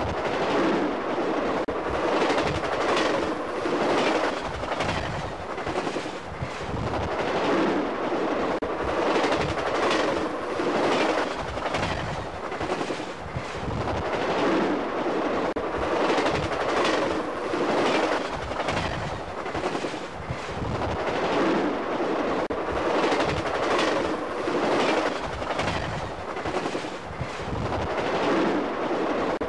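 Passenger cars of a long train rolling past at speed, their wheels clattering over rail joints in a steady repeating clickety-clack.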